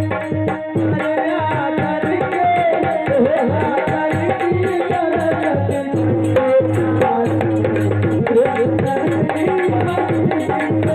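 Indian devotional bhajan music with a quick hand-drum rhythm under held tones and a wavering melody line.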